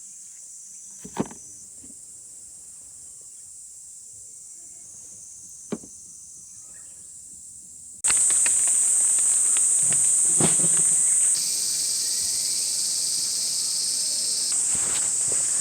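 Insects chirping steadily in a high band, with two short knocks in the first half. About eight seconds in the chirping jumps abruptly much louder, mixed with scattered crackles and knocks.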